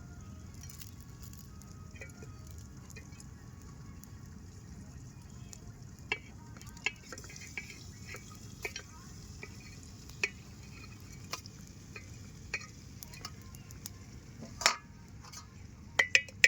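Garlic and onion frying in a pan with a faint steady sizzle. A spatula knocks and scrapes against the pan as it is stirred, the knocks starting about a third of the way in and coming more often near the end.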